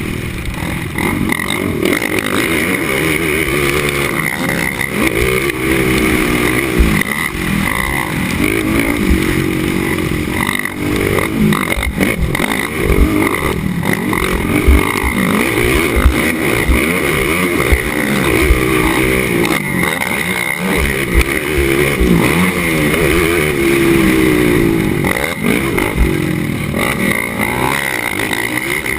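Racing ATV engine revving hard, its pitch climbing and dropping again and again as it accelerates and shifts, with frequent short low knocks.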